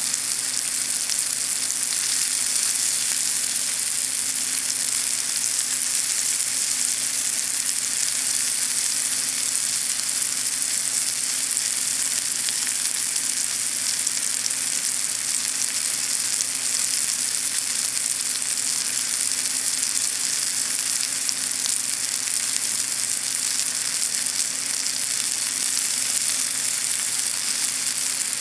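Pieces of sweet potato sizzling in a frying pan, a steady, even hiss.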